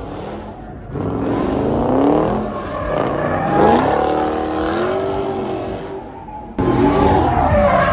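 A muscle car's engine revving hard, its pitch swinging up and down, while the rear tyres spin in a smoky donut with a hiss of tyre noise beneath it. The sound gets suddenly louder about two-thirds of the way in.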